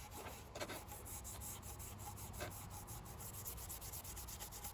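Scratch pad scrubbing rust off a vinegar-soaked steel axe head, a faint run of repeated rubbing strokes.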